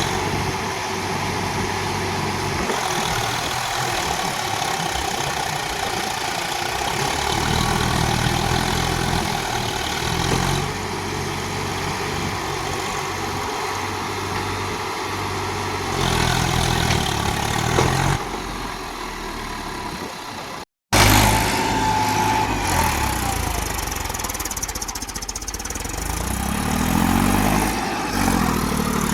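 Tractor diesel engines running steadily, cut off abruptly for a moment about two-thirds of the way through, then an engine revving up and down near the end.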